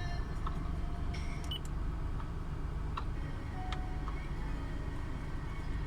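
Steady low rumble of a car on the move, heard from inside the cabin, with a few scattered light clicks.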